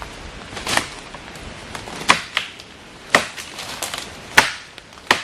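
Chopping at a dead log with a blade: about six sharp strikes at uneven intervals, clearing the wood.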